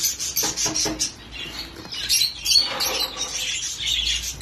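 A flock of lovebirds and parrots chirping and chattering, many short high calls overlapping without a break.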